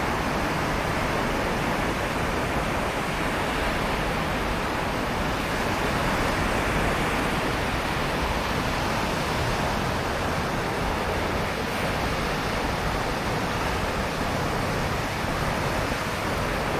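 Sea surf washing onto a sandy beach, a steady, unbroken wash of wave noise with no single breaker standing out.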